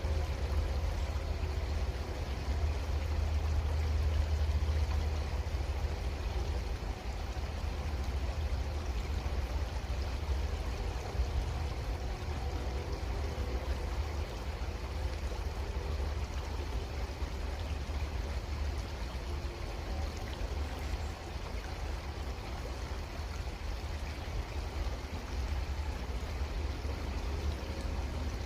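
Creek water flowing and trickling steadily, with a constant low rumble underneath.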